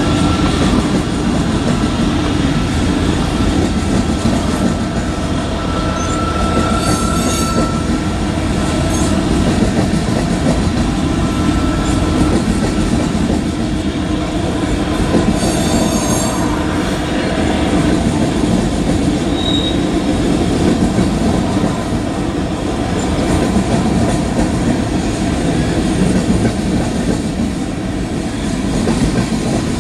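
Coal train's open-top freight cars rolling steadily past: a continuous rumble of steel wheels on rail with clicking over the rail joints. A thin, high wheel squeal comes in briefly about a fifth of the way in.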